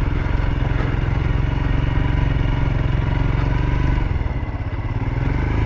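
A 2023 Royal Enfield Himalayan's 411 cc single-cylinder engine runs at a steady low speed while the bike rides off-road. It eases off briefly about four seconds in, then picks back up.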